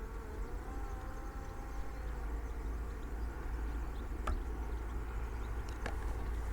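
Distant hum of a Parrot Disco fixed-wing drone's electric motor and propeller in flight, its pitch sliding down a little in the first two seconds, over a low rumble. A few sharp clicks near the end.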